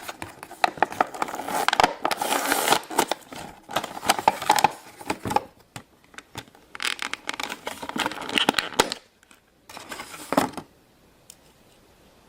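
Handling noise from a die-cast toy airplane and its plastic packaging: clicks, taps and crinkling in uneven bursts with short pauses, stopping near the end.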